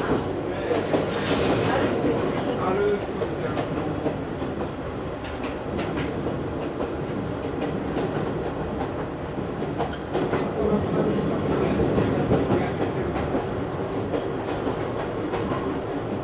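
Interior running sound of an Izu Hakone Railway Series 3000 electric train car at speed: a steady rumble of wheels on rail with intermittent clicks over rail joints.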